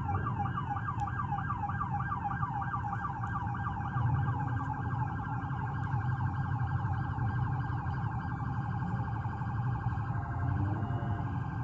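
Electronic siren sounding a fast, unbroken yelp of rising sweeps, about four a second, over a low vehicle rumble.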